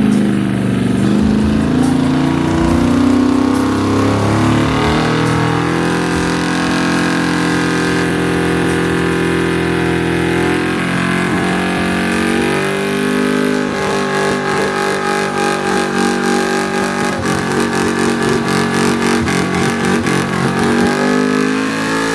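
Car engine held at high revs during a burnout. Its pitch climbs at the start and then holds steady, and in the last third the revs waver in quick, even pulses.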